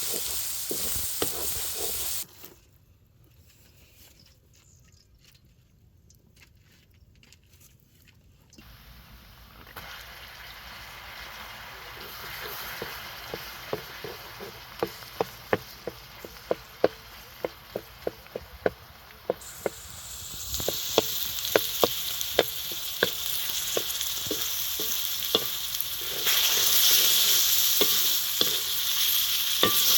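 Food frying in oil in a pan, sizzling, with a utensil knocking against the pan as it is stirred. The sizzle drops away abruptly a couple of seconds in, then builds back and grows louder in the second half.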